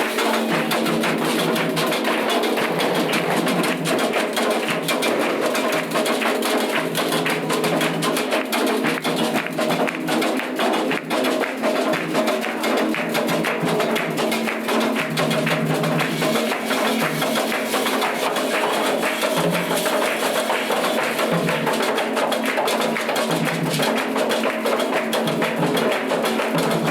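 Candomblé ritual music: drums and percussion play a dense, fast, unbroken rhythm over steady pitched tones.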